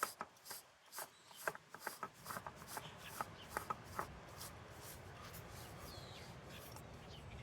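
A spin-on oil filter being threaded onto a tractor engine by hand: a quick series of small clicks and scraping rubs over the first four seconds or so, then only a faint steady background.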